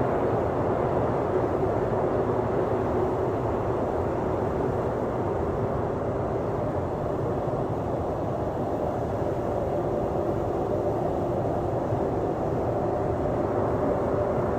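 Jet engines of a Korean Air Airbus A321neo running steadily: an even rush of noise with two steady droning tones in the middle range.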